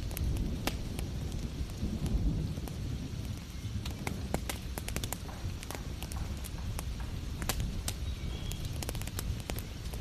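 Wood fire crackling, with many irregular sharp pops, over a low steady rumble and an even hiss of heavy rain.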